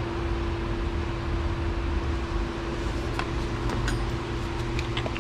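Steady low machine hum with a faint steady tone through it, with a few light metallic ticks about three and four seconds in.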